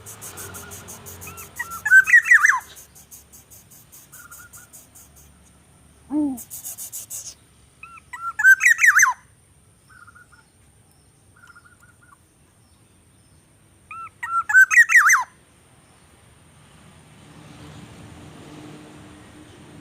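A bird's short, quick chirping phrase, repeated three times about six seconds apart. A fast high ticking runs through the first few seconds.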